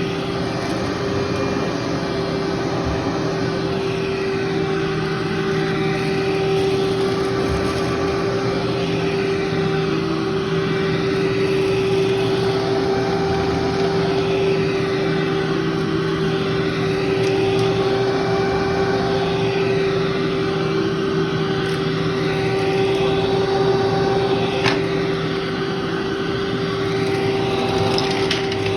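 Vacuum cleaner running steadily with a strong, even hum over its hiss, the upper range slowly swishing up and down as it is worked over deep carpet. A few sharp ticks near the end as grit is picked up.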